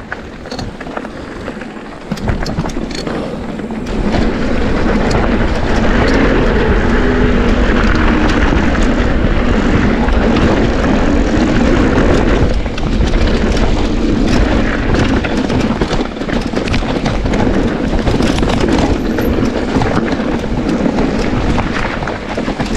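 Mountain bike riding down a trail: steady wind rush on the microphone and tyre noise on dirt, with frequent clicks and rattles from the bike. It gets louder about two seconds in and again about four seconds in, as speed picks up.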